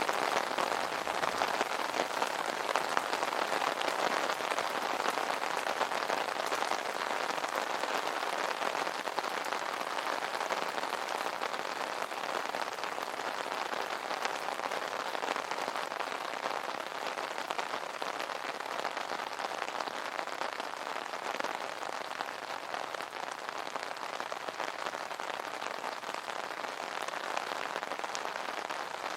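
Steady rain pattering on an umbrella's fabric canopy, a dense unbroken patter of drops.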